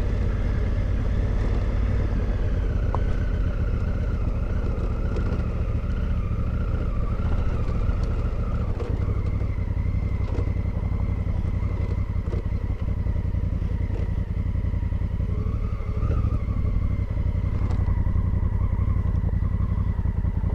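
Motorcycle engine running steadily at low speed while being ridden, with a few faint clicks along the way.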